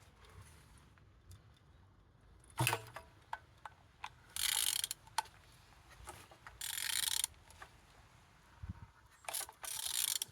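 Ratchet wrench clicking in several short spells, each under a second, as an engine's crankshaft is turned over by hand to show that it rotates freely. A single knock comes about a quarter of the way in.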